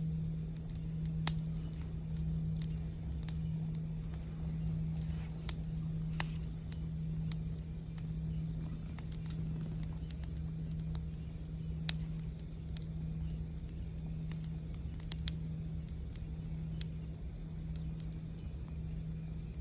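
Campfire crackling with scattered sharp pops, over the low, steady hum of a singing bowl that wavers in a slow, even pulse.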